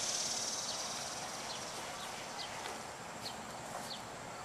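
A small bird chirping repeatedly, short high notes that drop in pitch, over a steady high hiss of outdoor background that fades over the first second or two.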